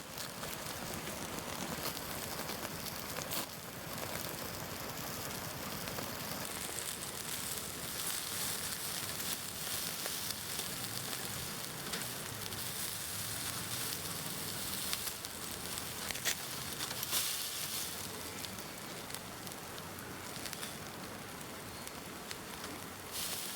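Campfire crackling and sizzling: a steady hiss with scattered sharp crackles.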